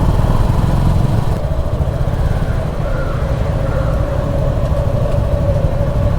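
Motorcycle engine running at low speed, under heavy low rumble from wind on the rider's microphone, with a steady engine hum holding from about two seconds in.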